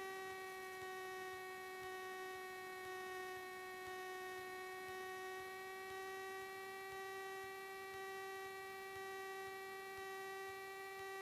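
A steady electrical hum with a buzzy, overtone-rich tone, holding one pitch throughout.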